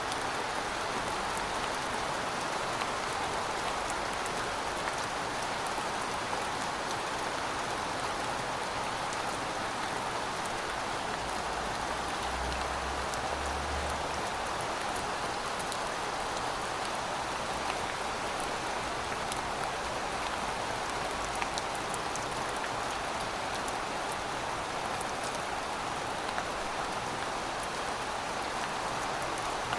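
Heavy rain falling steadily: a dense, even hiss of rain on surfaces, with scattered sharp drop ticks.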